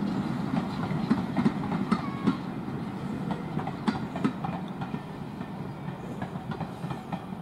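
Passenger coaches of a train rolling past, their wheels rumbling and clicking on the rails. The sound slowly gets quieter as the train moves away.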